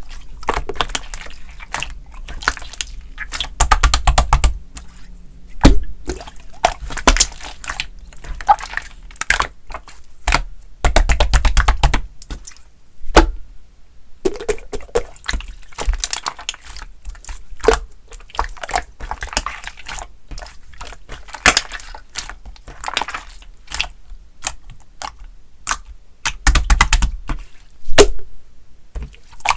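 Pink slime being worked by hand: sticky, wet squishing and clicking, with three bursts of rapid crackling pops as it is pressed and folded.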